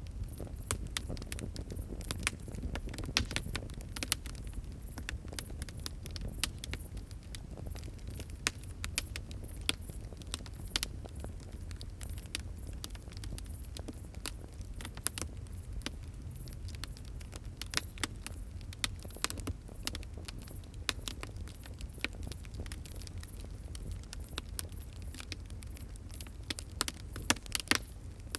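Wood fire crackling: irregular sharp pops and snaps, often several a second, over a steady low rumble of the flames, with a burst of louder pops near the end.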